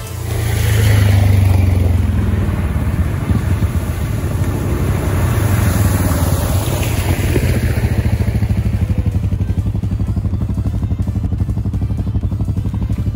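ATV engine running as the quad drives through a flooded puddle toward the camera and past it, spraying water; the pitch drops as it goes by about six to eight seconds in, and the engine keeps pulsing steadily afterwards.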